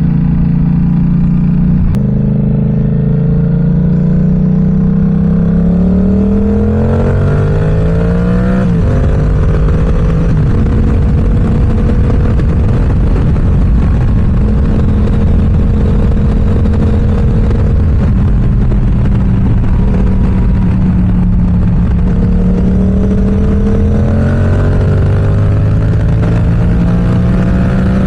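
Yamaha YZF-R7's parallel-twin engine through an M4 aftermarket exhaust while riding. The revs climb for several seconds under acceleration, then drop with an upshift about nine seconds in. The engine holds a fairly steady cruise and climbs again near the end, over a steady rushing noise.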